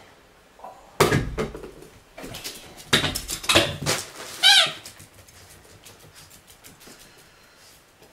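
A pet dog yelps and whines in a small room, in a few short bursts ending in a high, wavering whine, after a sudden thump about a second in.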